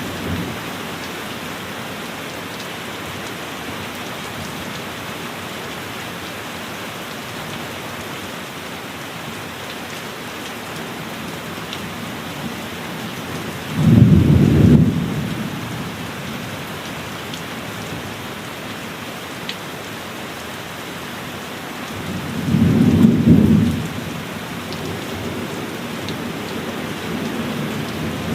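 Heavy rain falling steadily on a cabin, with two low rumbles of thunder, one about halfway through and another near the end.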